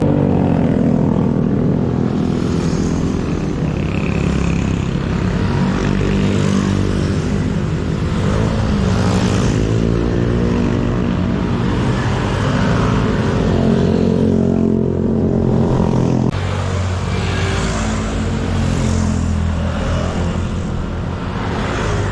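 Motorcycle engine running while riding, its pitch rising and falling with the throttle around the middle, over steady rushing noise; the sound changes abruptly about two-thirds of the way through.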